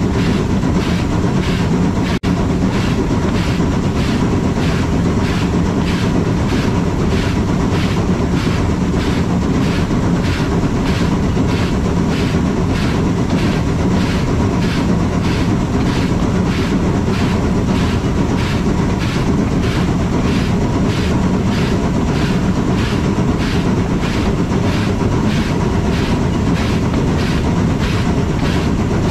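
Steam-hauled rack railway train running steadily along cog track, with a continuous low running rumble and a regular beat about twice a second.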